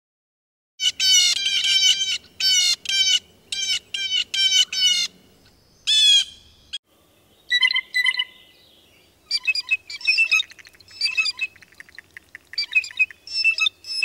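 Blue jay calling: a quick series of repeated calls, a short break about seven seconds in, then more groups of calls.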